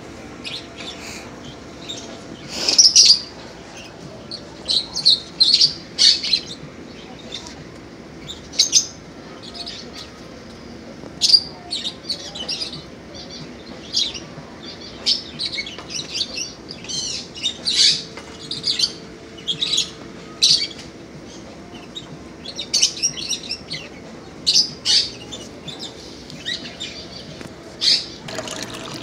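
Caged pet birds chirping: many short, high calls, some in quick runs, coming every second or two.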